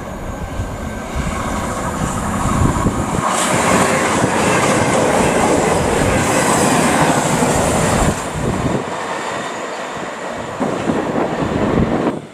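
A CrossCountry Voyager diesel multiple unit passing without stopping: diesel engines and wheels on the rails. It grows louder as the train comes in, is loudest while the coaches pass close from about two seconds in, drops away at about eight seconds, and cuts off abruptly near the end.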